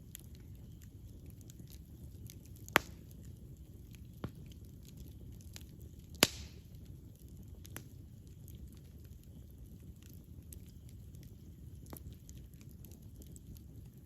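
Wood campfire burning: a steady low rumble of flame with scattered small crackles, and two sharp loud pops, about three seconds in and just after six seconds, the second followed by a brief hiss.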